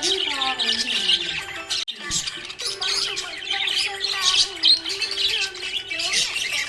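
Small pet parrots chirping and chattering continuously in a dense, overlapping chorus, over background music with a slow held melody. Everything drops out for a moment just before two seconds in.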